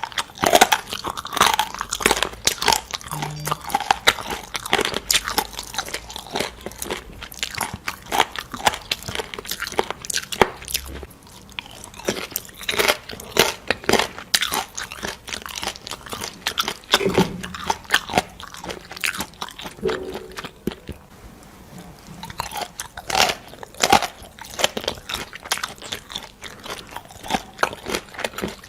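A person biting and chewing crunchy food close to the microphone: repeated crisp crunches, several a second, with short pauses between bites.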